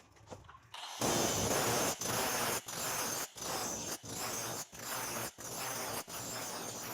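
A mechanism worked in repeated rasping strokes, about three every two seconds, starting about a second in.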